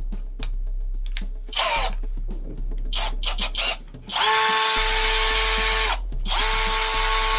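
Saker 20 V brushless cordless drill running with no load: a short burst about a second and a half in, then two runs of about two seconds each at a steady pitch from about four seconds in, the second winding down at the end, with small clicks in between.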